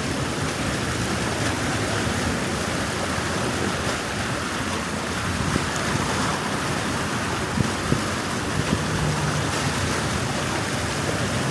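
Water rushing steadily through a breached beaver dam, a continuous broad noise of fast flow.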